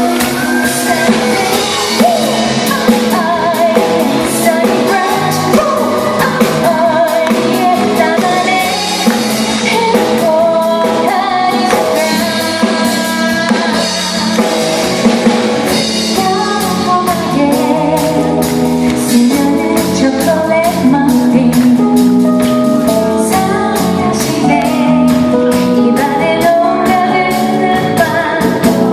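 Live band playing a song, a singer over a drum kit keeping a steady beat.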